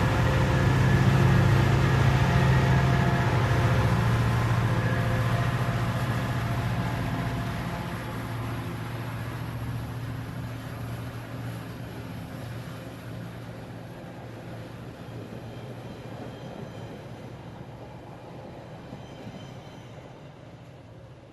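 A large vehicle's steady rumble with a low hum and a faint high whine, slowly fading away over about twenty seconds.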